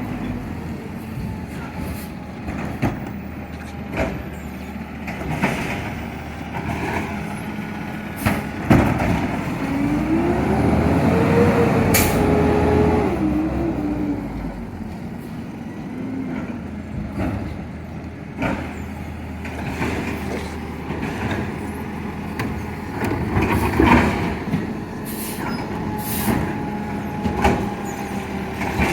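Garbage truck running, with repeated clanks and knocks and a whine that rises and falls about ten seconds in.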